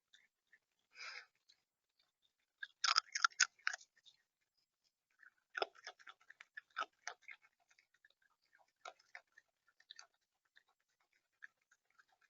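A bird pecking and cracking seed in a feeder: irregular sharp clicks and taps of beak on seed and feeder, with a short rustle about a second in, the densest run of pecks around three to four seconds in, then thinning to scattered taps.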